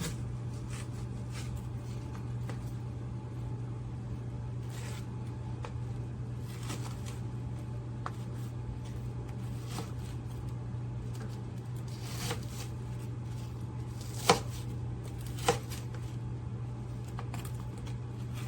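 A steady low electrical-sounding hum with scattered light clicks and rustles of handling, and two sharper clicks about three-quarters of the way through.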